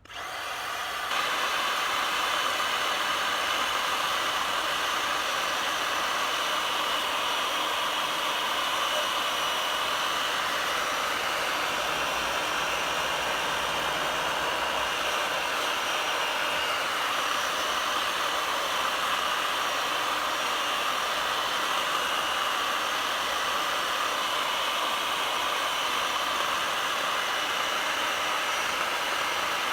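A motor running at a steady, unchanging speed, starting abruptly.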